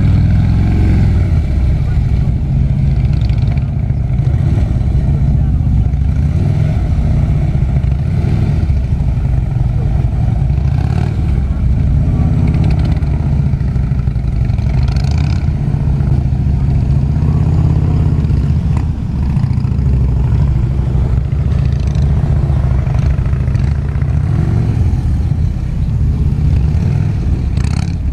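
Harley-Davidson V-twin motorcycle engine running at low speed, its note rising and falling every few seconds as the rider works the throttle through slow, tight turns, over a heavy low rumble.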